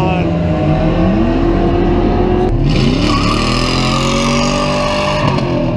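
Drag-race car engine running hard, its pitch sweeping upward twice as it accelerates.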